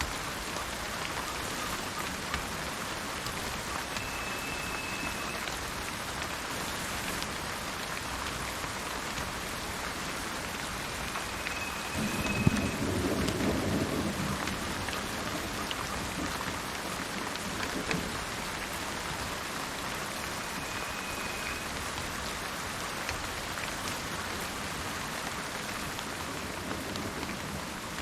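Steady rain falling, with a low rumble of thunder about twelve seconds in that lasts a couple of seconds. A bird whistles a short, high, steady note three times, several seconds apart.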